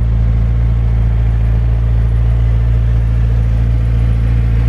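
McLaren 650S Spyder's twin-turbocharged 3.8-litre V8 idling steadily, a deep even hum.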